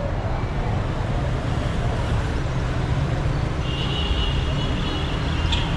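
Dense city traffic: a steady low rumble of car, bus and motorbike engines. A thin high-pitched tone sounds for about two seconds in the second half, followed by a short sharp sound near the end.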